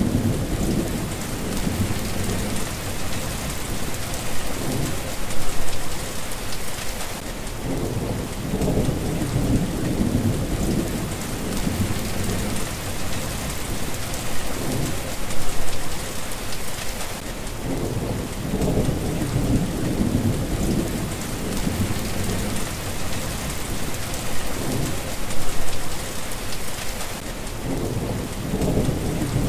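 Steady rain with low rolling thunder. The thunder swells and fades several times, about every ten seconds.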